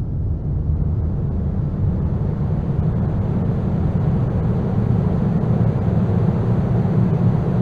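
Dense, low rumbling noise drone, strongest in the bass, that slowly grows brighter as hiss fills in above it; part of an experimental apocalyptic ambient noise composition.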